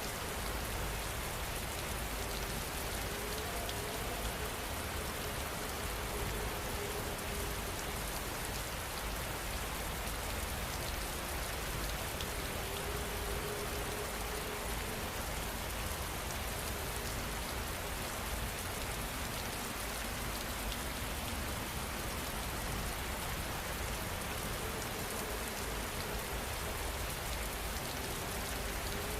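Steady rain falling, an even hiss of many drops with no breaks or surges.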